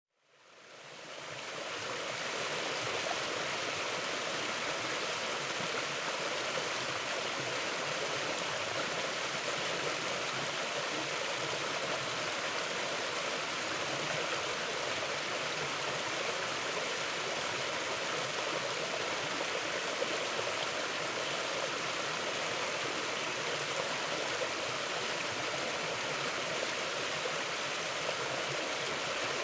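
Mountain river flowing: a steady rush of running water that fades in over the first two seconds and then holds even.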